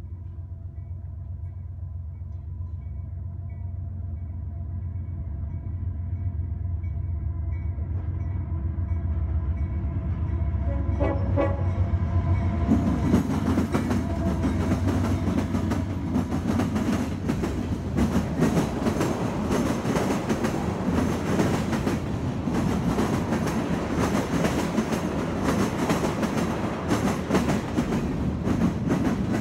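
CSX freight train approaching and passing: a low diesel rumble with faint horn tones builds steadily. About 13 s in, the diesel locomotives, an EMD SD70AH-T4 among them, pass close by and the sound turns loud. Freight cars then roll past, their wheels clacking rapidly over the rail joints.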